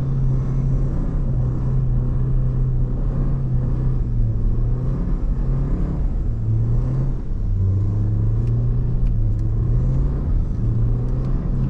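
Porsche Macan's turbocharged four-cylinder engine pulling steadily under throttle while driving in snow. Its note drops in pitch a little past halfway through.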